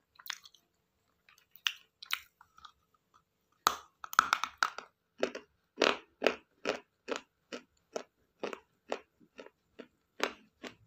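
A person chewing something hard and crunchy, a few scattered crunches at first, then steady rhythmic crunching at about two or three bites a second from about four seconds in.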